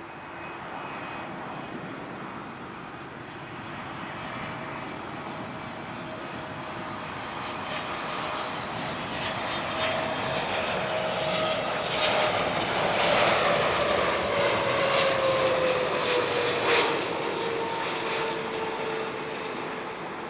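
Boeing 777 jetliner on final approach passing low overhead. Its engine noise swells to a peak and then fades, and a whining engine tone drops in pitch as it goes by.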